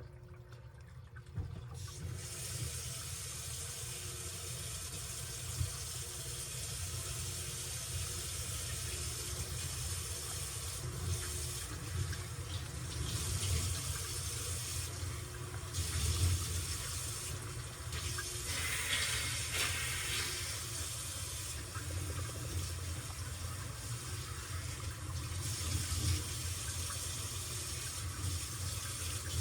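Washing machine taking in water: a steady rush and hiss of water filling the drum starts about two seconds in, over the machine's low hum.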